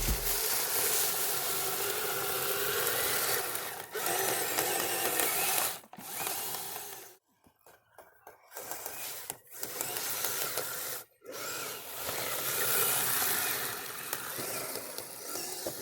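Electric motor and gear drive of a Kyosho Blizzard RC tracked snow vehicle whining as it drives, with a steady run for about six seconds, then stopping and starting several times.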